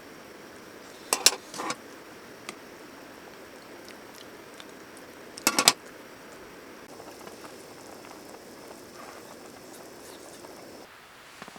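A steady bubbling hiss, like a pot on the boil, with a few sharp clinks or knocks in two quick clusters, about a second in and about five and a half seconds in. The hiss cuts off suddenly near the end.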